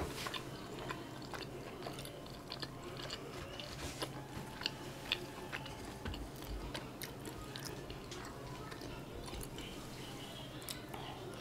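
A person chewing a mouthful of chive dumpling, with many small mouth clicks and smacks.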